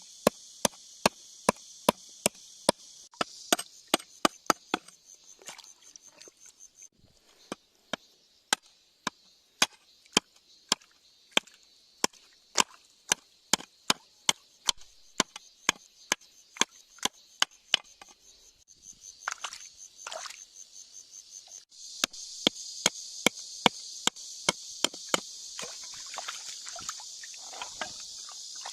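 Metal tool tapping and chipping at rock: a long run of sharp clicks about two a second, with a brief pause and a few scraping sounds near two-thirds of the way through. Steady high chirring of insects throughout, louder in the last part.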